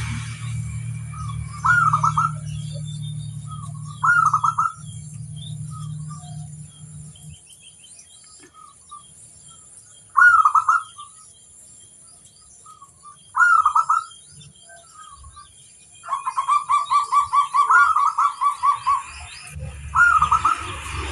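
Zebra dove (perkutut) cooing: short phrases every few seconds and, near the end, a fast run of repeated notes at about four a second. Small birds chirp faintly behind it, and a low hum stops about a third of the way in.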